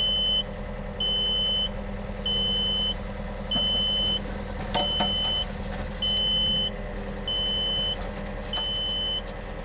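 Yanmar ViO50 mini excavator's diesel engine running steadily under a repeating high warning beep, about one beep every second and a quarter: the quick coupler's alarm, which sounds while the coupler is set to release the bucket. A single metallic clank comes about halfway through.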